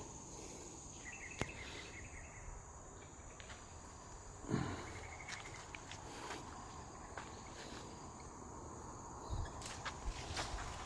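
Outdoor insect chorus: a steady high-pitched drone, with two short chirping trills and a few faint clicks, plus a soft thump about four and a half seconds in.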